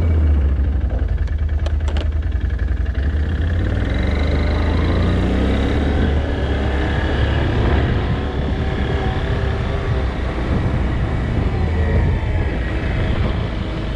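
An engine running steadily with a low, even rumble, its pitch shifting slightly now and then; a few sharp clicks sound about a second and a half in.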